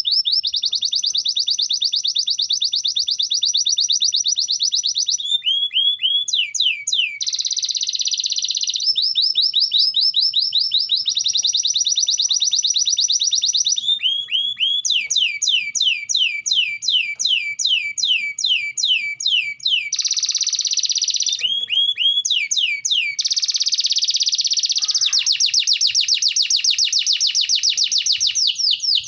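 Domestic canary singing a long, loud song: fast rolling trills alternating with runs of slower, separate downward-sweeping notes, barely pausing.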